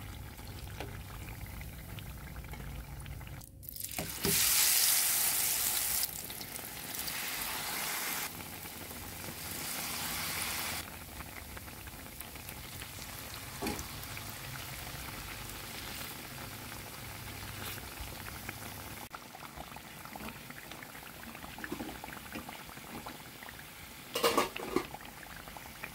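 Batter-coated banana pieces deep-frying in hot oil in a pan: a steady bubbling sizzle that surges loudly for a couple of seconds about four seconds in, then swells twice more before settling. A few light clicks near the end.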